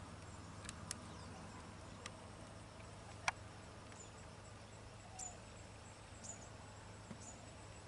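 Faint outdoor ambience: four short, high bird chirps in the second half and a few sharp clicks, the loudest about three seconds in, over a low steady hum.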